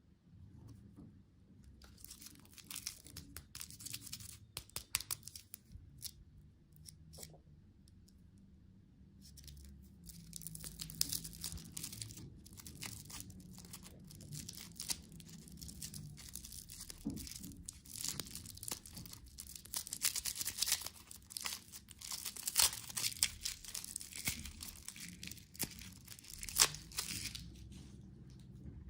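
Packaging, likely a plastic candy wrapper, being torn open and crinkled in a long run of dense crackling, with a short lull a few seconds in before it picks up again.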